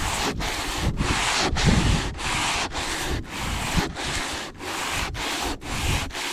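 Sandpaper being rubbed by hand over hardened body filler on a fiberglass boat hull, in quick repeated strokes of about two a second with short breaks between them.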